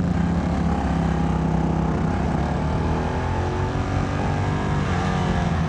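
Motorcycle engine running steadily under way, heard from the rider's seat, with wind rushing over the helmet microphone.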